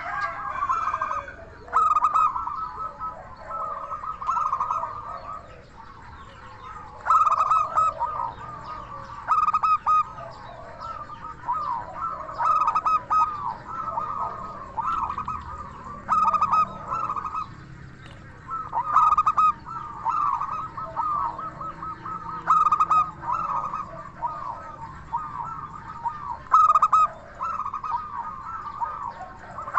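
Zebra dove (perkutut) singing: repeated phrases of rapid, bubbling cooing, each a second or two long, with short pauses between them.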